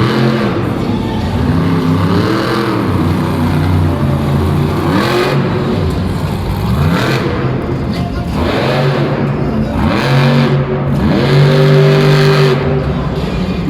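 Monster truck engine revving hard in repeated bursts, its pitch climbing and falling again and again, then holding high for a moment near the end.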